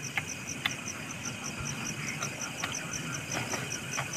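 Insect chirping in a steady, rapid pulse of high-pitched notes, about six or seven a second, with a few faint clicks.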